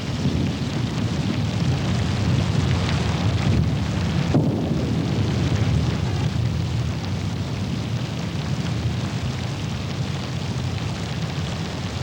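Thunderstorm: a long, loud rolling rumble of thunder over the hiss of heavy rain.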